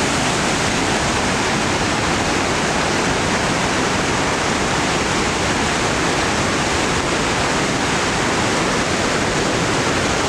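Waterfall and river rapids rushing at the brink of the falls: a loud, steady, unbroken roar of water.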